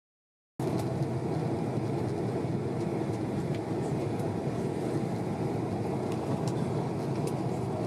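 Steady noise inside the cabin of a Boeing 767-300 airliner: engine and airflow noise, starting abruptly about half a second in and holding an even level, with a few faint ticks.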